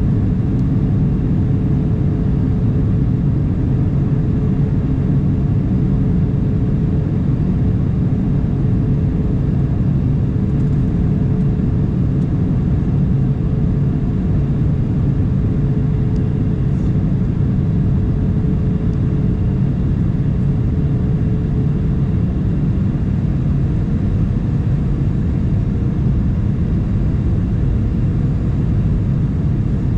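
Steady cabin noise inside a Boeing 737-900 on approach: the CFM56 engines and the airflow make an even low rumble with a faint steady hum above it.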